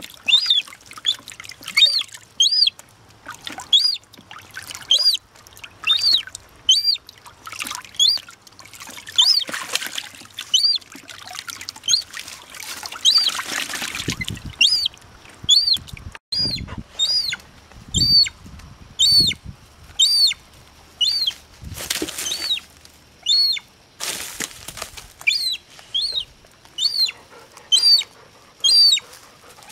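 Young gull chick peeping over and over, short high calls that rise and fall, about one or two a second. A few longer bursts of noise come in between.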